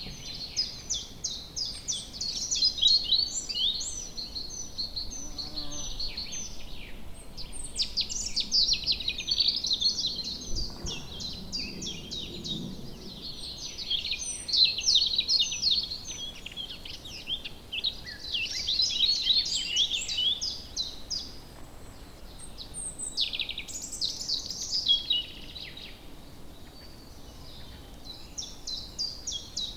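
Several songbirds singing and chirping at once in woodland, with quick high trills and calls overlapping almost without a break over a faint steady background hiss.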